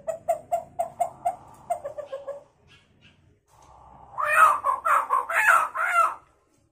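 Hill myna imitating a chicken: a quick run of short clucks, about four a second, then about four seconds in a louder, longer crow-like call that bends in pitch.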